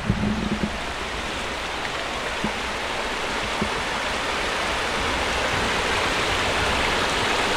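Steady rush of flowing river water, growing gradually louder.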